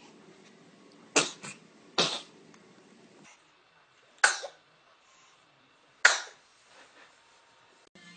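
Baby sneezing, four short sharp sneezes spread over about five seconds, the first followed closely by a smaller one.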